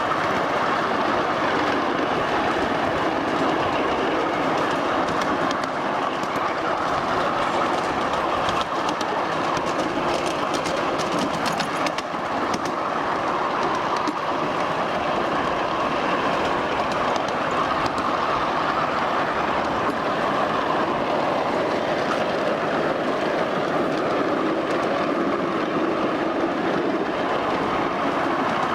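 1/8-scale riding train rolling along its track, a steady rumble of wheels on rail with a few faint clicks from the rail joints.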